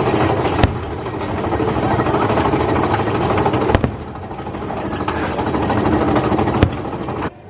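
Big Thunder Mountain Railroad mine-train roller coaster running along its track, heard from on board: a loud, steady rumble and clatter with three sharp knocks spaced a few seconds apart. The sound cuts off suddenly near the end.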